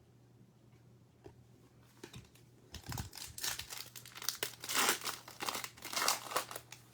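Foil wrapper of a trading-card pack crinkling and tearing as it is ripped open, starting about three seconds in as a run of irregular crackles.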